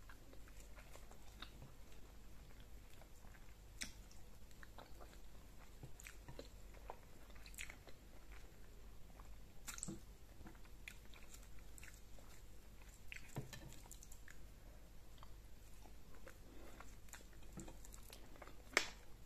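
Close-miked chewing and soft wet mouth clicks of someone eating fufu and egusi soup, faint and irregular, with one sharper click near the end.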